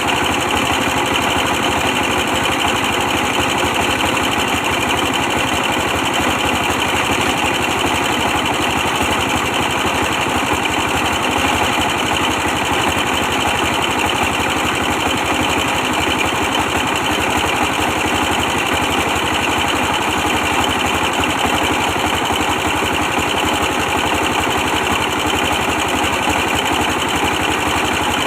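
A 24 hp diesel engine running steadily while it drives a brick-press machine, with a fast, even firing pulse.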